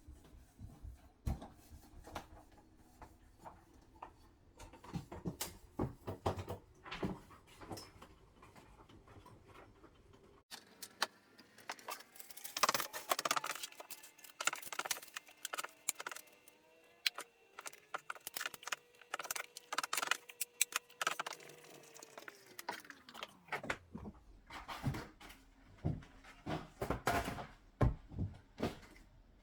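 Household handling noises: scattered clicks, knocks and clatter of things being moved about. Midway a steady hum rises in, holds, then slides down in pitch and dies away about 23 s in, like a small appliance motor winding down.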